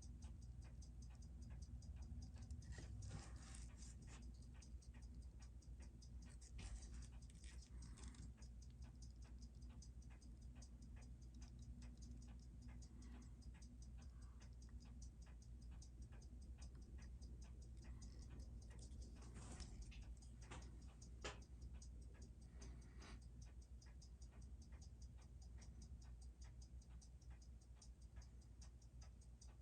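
Seiko 6R15 automatic watch movement ticking rapidly and evenly as it runs after service, over a steady low hum. A few louder handling rustles and clicks come in about three, seven and twenty seconds in.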